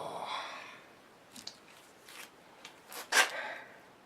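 Tools being handled: a short scraping rattle at the start, then scattered light clicks and one louder clack about three seconds in.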